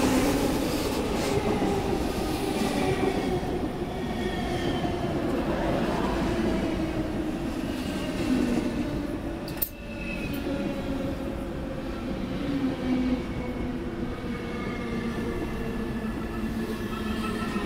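Deutsche Bahn ICE high-speed train rolling slowly past along the platform: a steady rumble of wheels on rail with thin whining tones that drift slowly in pitch.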